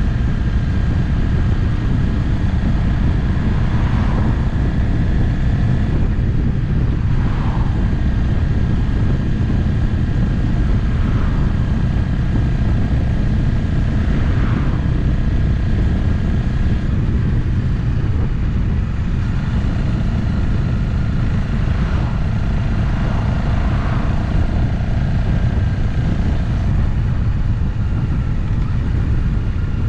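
Motorcycle riding at a steady cruising speed: the engine runs evenly under a heavy low rush of wind and road noise, with a faint steady whine on top. It holds even throughout, with only a few brief faint swells.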